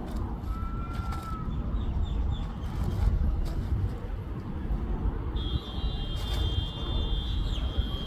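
Outdoor ambience: a steady low rumble like distant traffic, with a short single bird whistle about half a second in and a few faint chirps. From about five seconds in, a steady high-pitched tone joins.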